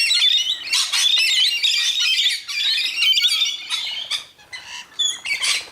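A flock of birds squawking and screeching over their food in dense, overlapping calls. The calls thin out and grow quieter after about four seconds.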